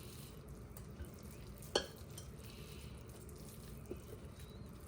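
Raw salmon chunks being dropped into a muffin tin: quiet handling of the meat, with one sharp tap a little under two seconds in and a couple of fainter ones.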